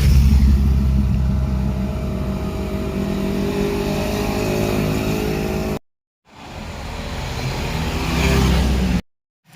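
Motorcycle engines passing by: the first is loudest at the start and slowly fades away, then after a brief cut another approaches, growing louder until it cuts off abruptly.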